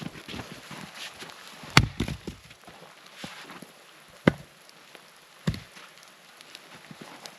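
Firewood being chopped: three sharp chops, about a second or two apart, with smaller knocks and clicks between them.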